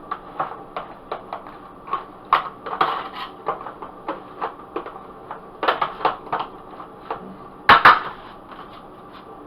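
Dishes and utensils being handled, clinking and knocking in a quick, irregular run of light taps, with two louder knocks close together near the end.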